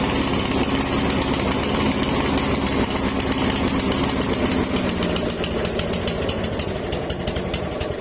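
Snapper walk-behind mower's small gasoline engine running steadily at speed, then easing down about five seconds in. It now runs smoothly after a repair for misfiring and hard starting.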